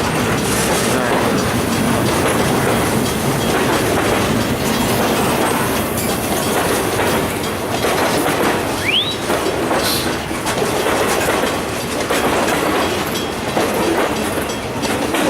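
Freight train cars rolling past with a steady clatter of wheels over the rails, and a brief rising squeal about nine seconds in.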